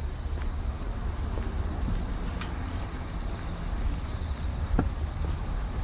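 Crickets chirping in a steady, unbroken high-pitched chorus over a low background rumble, with a single faint click nearly five seconds in.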